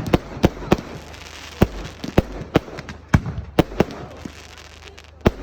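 Fireworks going off: about a dozen sharp bangs at irregular intervals, with a crackling hiss between them.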